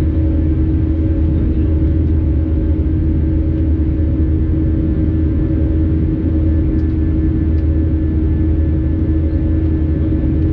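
Airbus A320 cabin noise in flight after takeoff: the steady rumble of the engines and airflow, with a constant hum over it.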